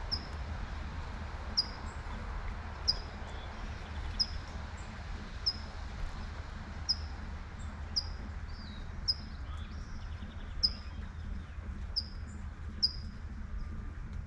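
A bird repeating a single short, high chirp about every second and a half over a steady hiss of light rain and a low background rumble.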